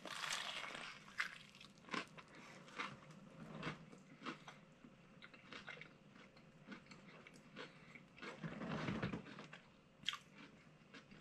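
A bite into a crunchy, ultra-crispy fried chicken sandwich with a crunch at the start, then close-up chewing with scattered small crunches and mouth clicks. About eight seconds in there is a longer stretch of crunching.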